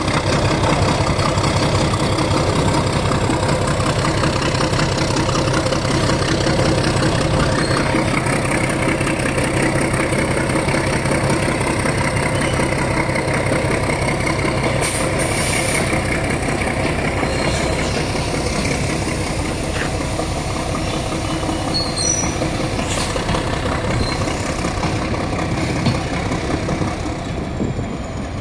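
Diesel shunting locomotive's engine running steadily at idle, a continuous deep drone, with a few faint clicks later on.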